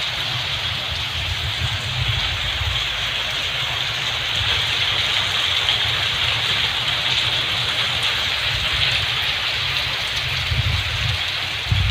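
Heavy rain pouring steadily, a dense even hiss of a downpour, with a fluctuating low rumble underneath.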